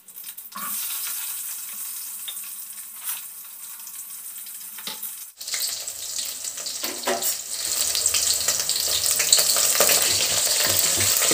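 Tempering sizzling in hot oil: mustard seeds, onion, byadgi chillies and curry leaves frying in a pan. It is a steady hiss that becomes louder and fuller about five seconds in, with a few short knocks.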